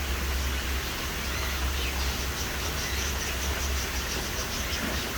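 Steady low rumble and hiss of outdoor background noise, with faint, rapid high-pitched bird chirps coming in from about two seconds in.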